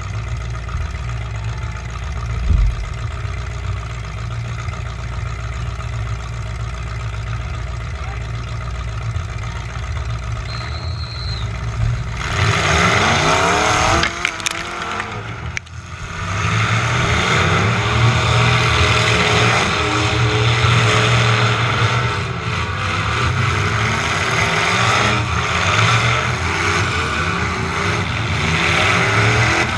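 Demolition derby truck's engine running low and steady, with a thump a couple of seconds in, then revving hard and accelerating about twelve seconds in. A sharp knock comes shortly after, the sound drops briefly, and then the engine runs loud under load again.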